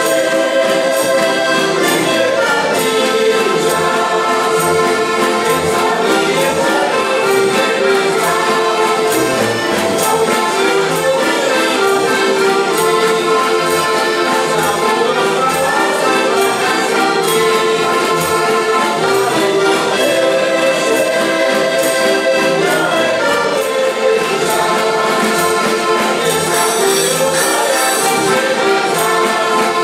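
Accordions playing a Slovak folk song together, a steady reedy ensemble sound with no pauses.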